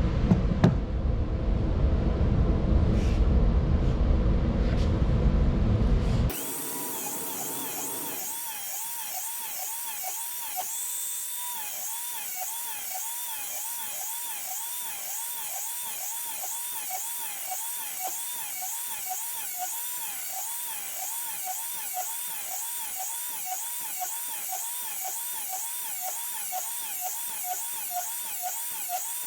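Electric lawn mower blade sharpener grinding a blade. For the first six seconds there is loud, rough grinding noise; then it drops abruptly to a quieter high whine whose pitch wavers up and down about twice a second.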